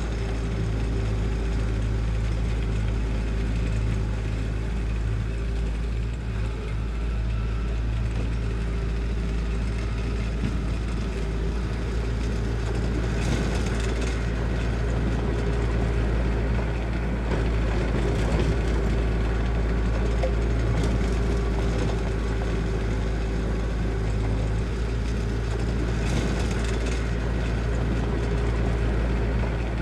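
Diesel engine of heavy construction equipment running steadily, with a deep rumble and a constant engine tone, and a few brief bursts of rattling or clanking midway and near the end.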